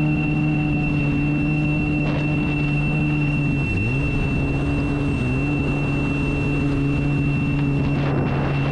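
Boat engine running at a steady speed, its pitch dipping briefly about four seconds in and again a little later before settling back. A steady high-pitched alarm tone sounds over it, the engine's high-temperature warning.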